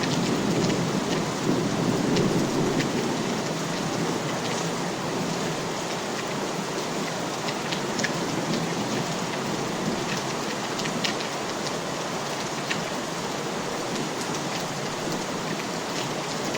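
Steady rain falling, with the separate ticks of individual drops hitting a surface over the even hiss. A low rumble sits under it in the first few seconds and then fades.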